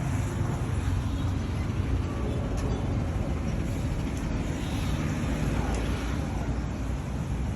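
A motor vehicle engine running steadily, with no revving or clear changes.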